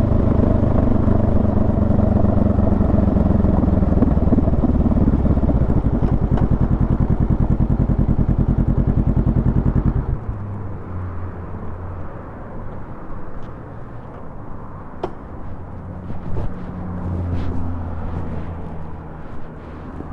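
Honda Rebel 500's parallel-twin engine idling with an even, rhythmic pulse, then cut off suddenly about halfway through. After that, only a quieter low hum and a few sharp clicks remain.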